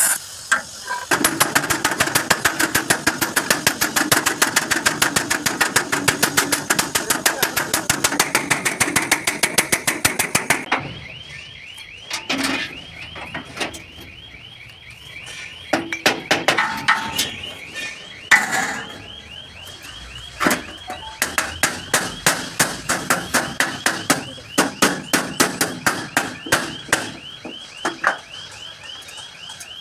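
Rapid, repeated hammer strikes on truck-cabin sheet metal, about ten a second for the first ten seconds, then sparser and more irregular. A thin, high, warbling tone joins about eleven seconds in and continues to the end.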